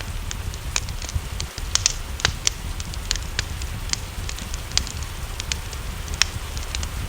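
Wood fire crackling, with irregular sharp pops several times a second, the loudest about two seconds and six seconds in, over a low rumble and a steady hiss of rain.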